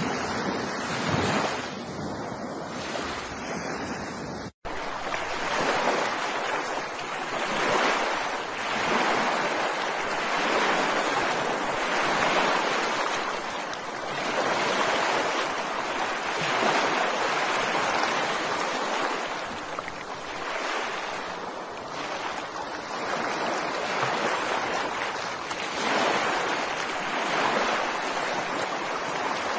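Ocean surf breaking on a beach, a steady wash of waves that swells and ebbs every couple of seconds. About four and a half seconds in the sound cuts out for a split second, then the surf continues with a slightly different texture.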